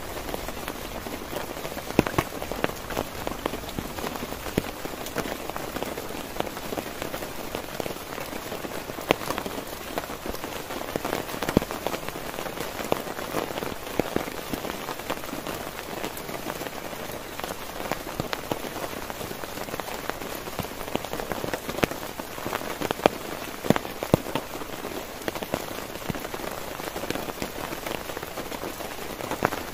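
Heavy rain falling steadily on a tent, a dense patter with frequent louder single drops striking the fabric.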